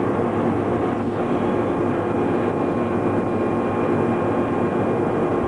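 Steady mechanical drone of a CNC laser cutting machine's running equipment, with a faint thin high tone joining about a second in.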